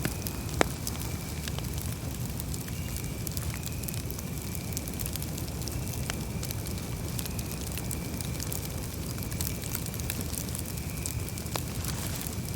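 Campfire burning, wood crackling with scattered small pops and one sharper pop about half a second in, over a steady low rumble.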